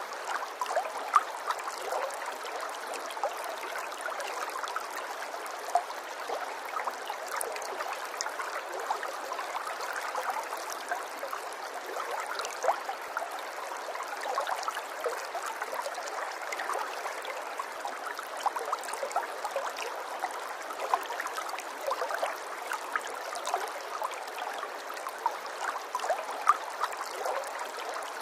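Flowing water trickling and gurgling steadily, with many small splashes throughout.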